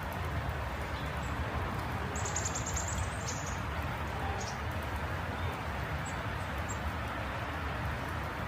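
A bird chirping: a quick run of high notes about two seconds in, then a few single chirps, over a steady outdoor background rumble.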